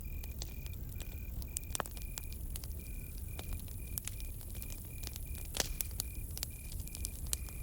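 Campfire crackling, with irregular sharp pops and a steady low rumble of the burning fire. Behind it a cricket chirps in a regular run of short, high chirps, a little over two a second.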